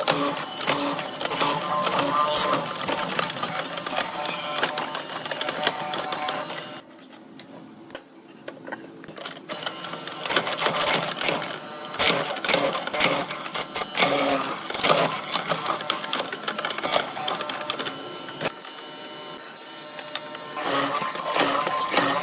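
Woodworking tools at work: a dense run of rapid knocks and clicks over a steady machine-like tone. It drops quieter for a few seconds about seven seconds in, and again near the end.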